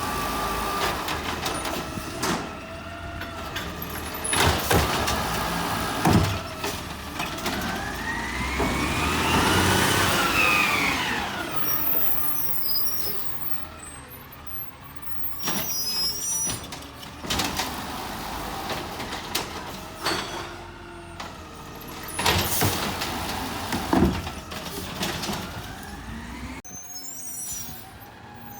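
Garbage truck at work: its engine runs and revs up and back down near the middle, with several loud bangs and clanks spread through.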